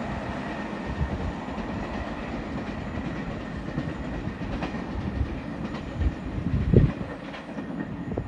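Passenger train of ICF coaches running through at speed: a steady rumble with wheels clattering over rail joints, and the loudest knock near the end.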